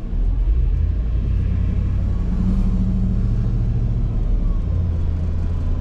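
Tow truck under way: a steady low engine and road rumble, with the engine note shifting a couple of times.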